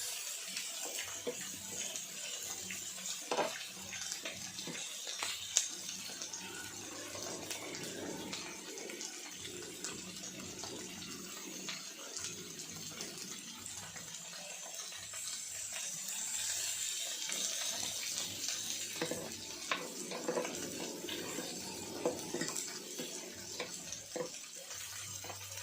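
Pork belly and fish sizzling on an electric grill pan, a steady hiss, with a few light clicks of utensils.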